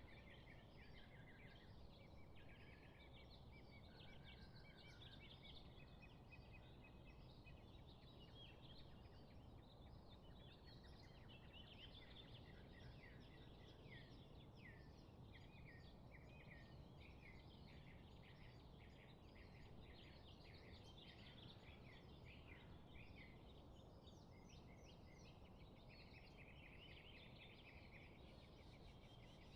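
Faint chorus of many small birds chirping and trilling at once, calls overlapping without a break, with runs of quick falling chirps in the middle, over a steady low background noise.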